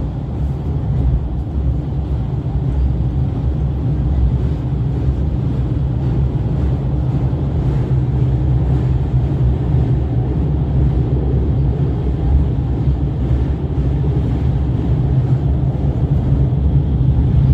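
Limited express Shiokaze train running at speed: a steady low rumble that grows slightly louder toward the end.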